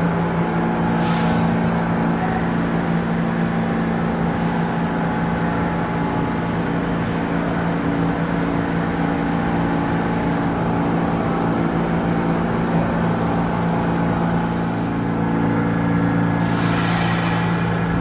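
New York City subway train standing in the station with a steady mechanical hum. A short air hiss comes about a second in, and a longer air release near the end.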